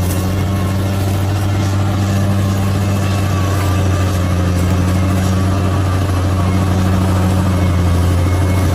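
Large bulldozer's diesel engine running at a steady, unchanging pitch.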